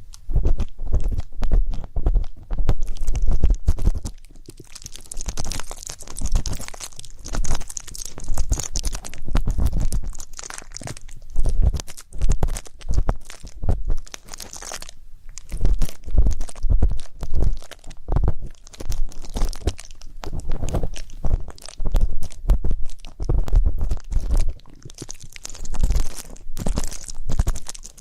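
Ear pick scraping and rubbing close up in a microphone's ear, a dense run of scratchy crackles with low thumps, coming in uneven waves.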